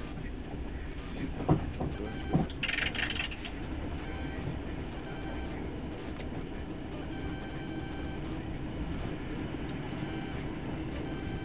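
Passenger train carriage heard from inside while running: a steady rumble from the wheels and track. Two sharp knocks come about a second apart early on, with a short hiss just after.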